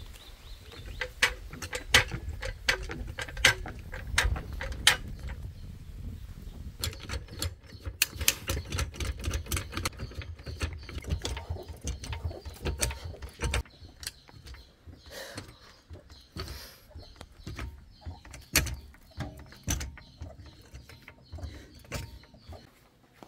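Rapid metallic clicking and clanking of hand tools being worked at a car wheel for a tyre repair, ratchet-like, densest in the first half over a low rumble, then thinning to scattered clicks.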